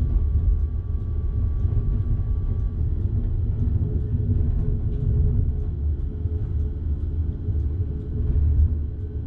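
Electric train running on the Bergen Line, heard from the driver's cab: a steady low rumble with a faint hum over it. A faint high tone stops about three seconds in.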